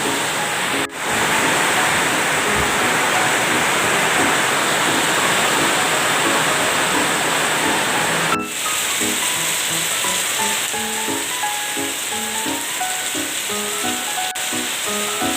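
Heavy rain falling in a steady hiss, with background music of short melody notes over it. The sound drops out for a moment twice, about a second in and about eight seconds in.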